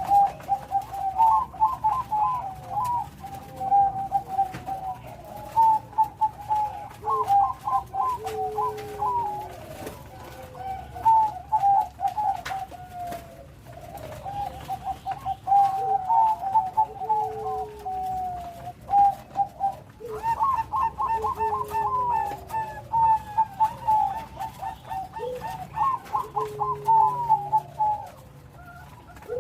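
Zebra dove (perkutut, Bangkok line) singing its cooing song over and over, each phrase a run of quick rolling notes around a steady coo, with a lower falling note, repeating about every five seconds.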